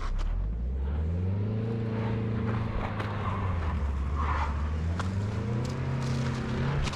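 Volkswagen Beetle engine revving up and easing off twice as the car fails to climb a slight ice-covered incline.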